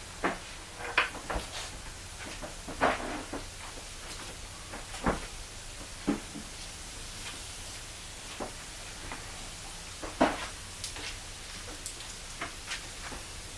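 Scattered knocks and clunks of tools and bolt hardware during an outboard motor installation. There are about eight sharp ones at irregular intervals, mostly in the first half, over a faint steady low hum.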